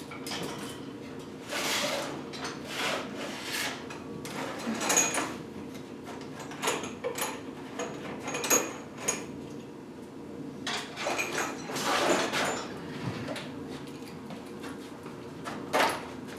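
Rummaging in a tool drawer for socket extensions: a drawer sliding and metal hand tools clinking and clattering at irregular moments, over a steady low hum.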